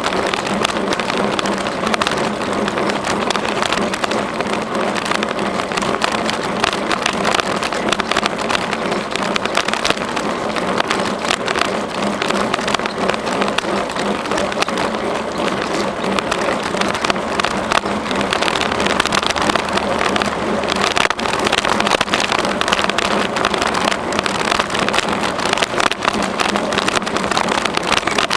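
Steady riding noise of a bicycle on a trail: tyres rumbling over the surface with a constant crackle of small rattles and knocks, and wind on the microphone.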